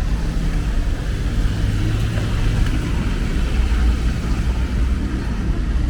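Traffic on a wet city street: vehicle engines running close by, with a steady hiss of tyres and rain.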